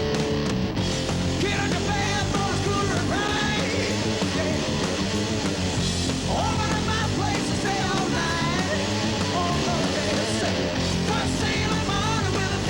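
Hard rock band playing live: loud distorted electric guitar over bass and drums, with a lead line that bends and wavers in pitch.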